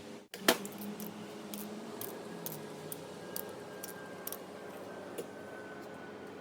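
Scattered light clicks of tools and parts being handled during engine assembly, with one sharper click about half a second in, over a steady hum.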